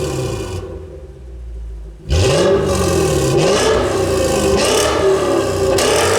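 Toyota Crown Majesta's V8 engine revved through a custom stainless exhaust with a high-pitched sound. The revs fall away and it goes quieter early on, then from about two seconds in it is blipped up and down several times.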